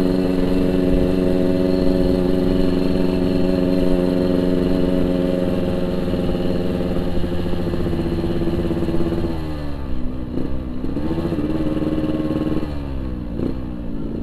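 Yamaha RX-King 135cc single-cylinder two-stroke motorcycle with a Boban aftermarket exhaust, running at steady revs. Later the revs drop and pick up again twice.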